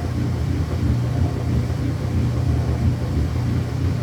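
Whirlpool washing machine spinning at high speed: a steady low drone from the spinning drum and motor, holding an even pitch and level.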